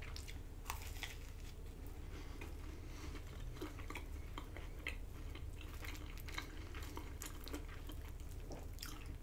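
Faint, close-up chewing of a cheese-filled garlic breadstick, with scattered small wet mouth clicks and smacks, over a steady low hum.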